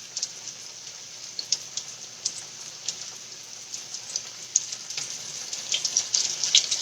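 Food sizzling in a hot skillet: a steady hiss with scattered crackles and pops that come thicker near the end.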